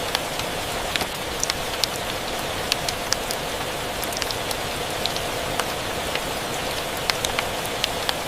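Rain and wood-fire ambience: steady rain hiss with irregular sharp pops and crackles, a few each second.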